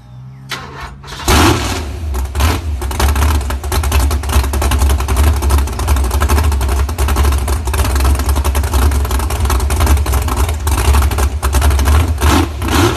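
A vehicle engine is started: a brief faint crank, then it catches about a second in and runs loud with a deep, steady, pulsing exhaust rumble.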